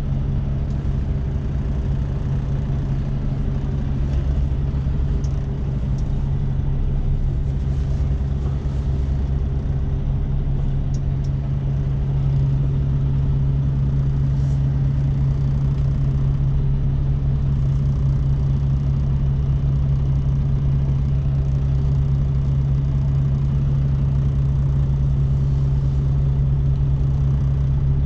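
Semi truck's diesel engine running steadily at low revs, a constant low drone that grows a little louder about halfway through.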